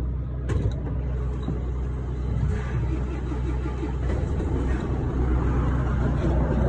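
Truck driving along, heard from inside the cab: a steady low engine and road drone.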